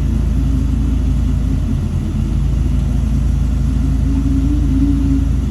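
Shantui bulldozer's diesel engine running steadily with a deep, even rumble. Its note rises a little about four seconds in.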